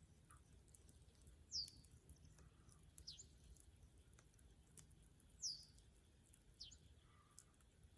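A bird calling with four short chirps, each sweeping quickly downward, over the faint scattered crackle of a burning wood fire.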